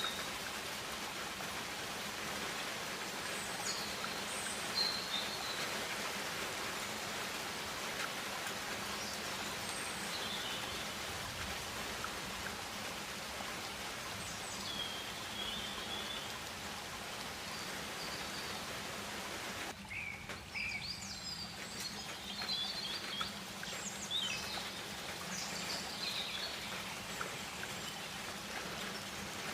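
Rainforest ambience: a steady hiss with scattered short bird calls. About twenty seconds in the background changes abruptly, and the bird calls come more often after it.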